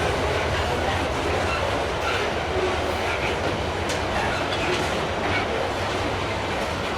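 Freight train's wagons rolling past on the track: a steady rumble with wheel clatter, and a sharp click about four seconds in.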